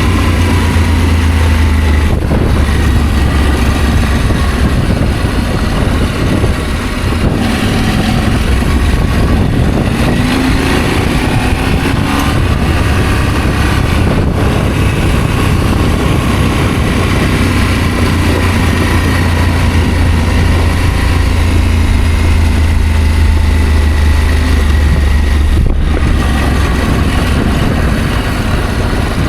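Adventure motorcycle engine running while under way, over a loud steady low rumble, with a few brief changes in engine pitch.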